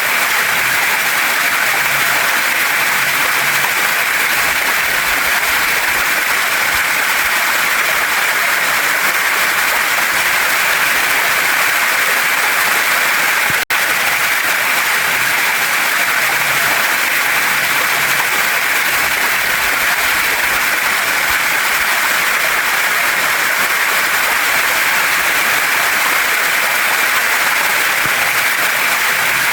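Waterfall and mountain stream: steady rushing water with no let-up, broken only by a split-second dropout about fourteen seconds in.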